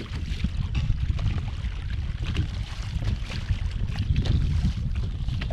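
Wind buffeting the microphone as a steady low rumble, with water lapping against the kayak's hull and scattered faint ticks and splashes.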